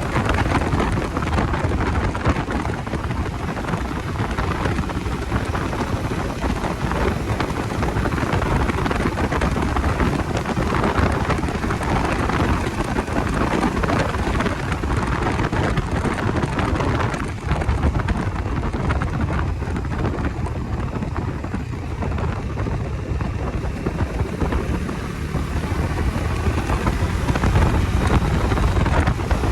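Wind buffeting the microphone on a moving Bajaj Dominar 250 motorcycle, a steady loud rush with the bike's engine running underneath it.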